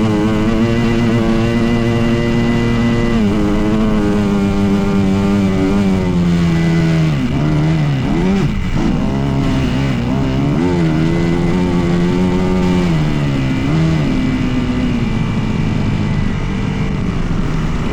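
Dirt bike engine running under throttle: the revs hold steady, ease off, then drop and climb again several times as the rider works the throttle.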